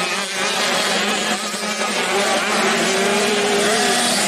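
Small 85cc dirt-bike engines running hard on the track. One engine note climbs and holds for a couple of seconds in the second half.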